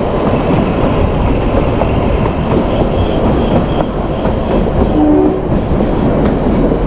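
Narrow-gauge mountain train running: a dense, steady rumble and clatter of wheels on rail. About three seconds in, a steady high-pitched wheel squeal joins in.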